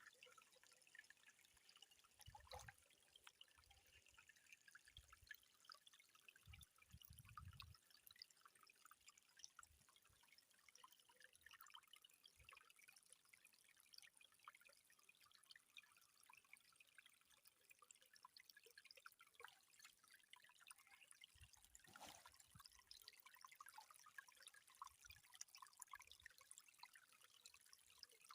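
Faint water trickling and dripping, a dense patter of small drops, with a few soft low thumps now and then.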